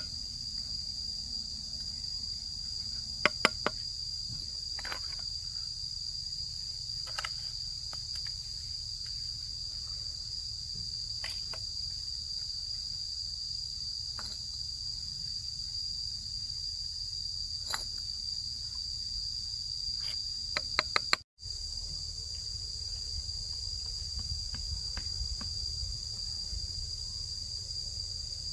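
A steady, high-pitched insect drone, with a few sharp clicks or taps here and there, a cluster of them about twenty seconds in.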